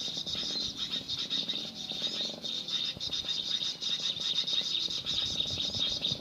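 Dense, continuous high chirping and trilling of birds and insects, with a steady high buzz under the calls.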